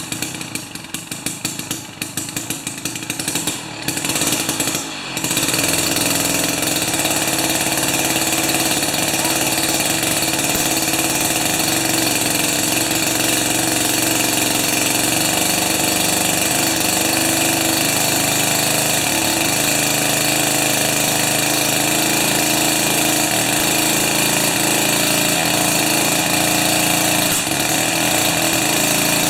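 Jiffy 30 ice auger's 3 hp Tecumseh two-stroke engine running rough and uneven on too much choke for about five seconds, then clearing and running steadily at high speed.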